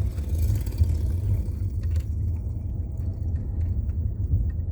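Sea waves roaring on a beach: a steady low rumble, with a faint hiss of surf wash in the first two seconds.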